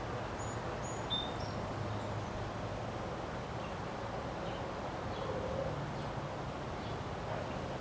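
Steady wind noise with a few short, high bird chirps, most of them about a second in and fainter ones later.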